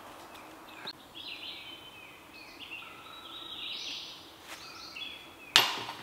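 Songbirds chirping and singing in short, repeated phrases, with one sharp, loud smack near the end.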